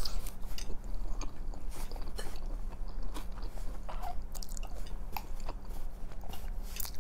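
Close-up mouth sounds of eating spaghetti in a sausage and pepper sauce: wet chewing with many small clicks and smacks as noodle strands are sucked in.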